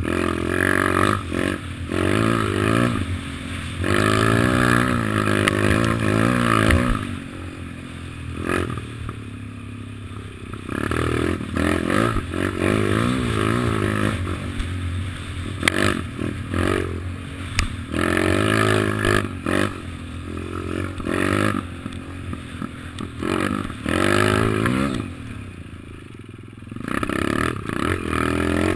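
Kawasaki KLX110 pit bike's small single-cylinder four-stroke engine being ridden, its revs climbing and dropping again and again as the throttle is opened and shut, with some clattering and scraping.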